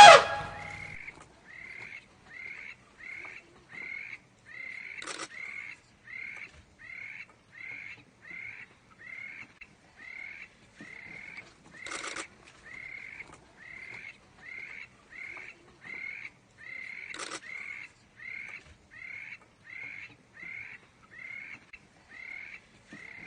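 Birds calling: a short chirp repeated steadily about twice a second, with a louder, rougher call breaking in four times.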